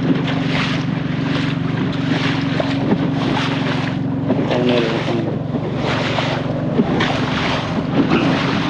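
Small boat's engine running steadily under way, with wind buffeting the microphone and water noise surging about once a second as the boat rides through choppy water in strong wind.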